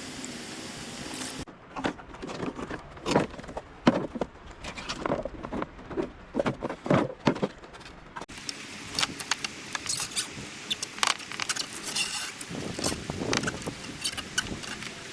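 Irregular knocks, clicks and clatter from hands-on work, with the background changing abruptly twice.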